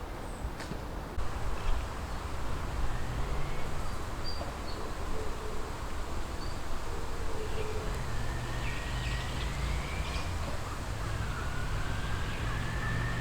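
Outdoor ambience with a steady low rumble of distant traffic, a few faint short bird notes, and two long, slowly rising thin whistles about 8 and 11 seconds in.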